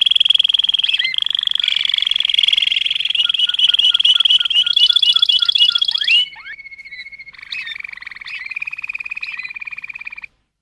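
Birdsong: fast, high trills with short chirps and gliding whistles over them. It cuts off suddenly about six seconds in, and a lower, steady trill starts about a second later and stops just before the end.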